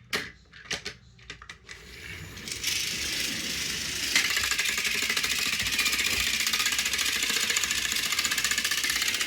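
A few light plastic clicks, then the electric motors and gears of battery-powered toy train engines whirring with a fast, even rattle, growing louder about four seconds in.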